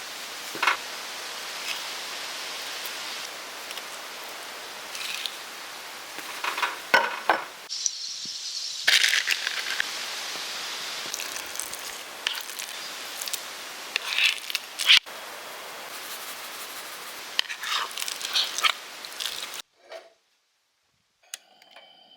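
Cooking preparation: scattered rustles, clicks and knocks from handling food and utensils over a steady hiss, in short clips that cut off abruptly, going silent near the end.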